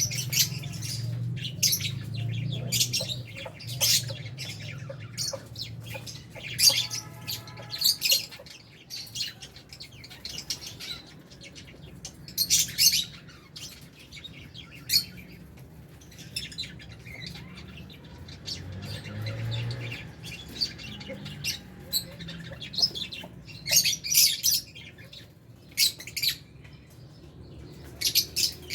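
A flock of lovebirds chirping and squawking: short, shrill calls coming in irregular clusters, several birds overlapping, with a few louder squawks.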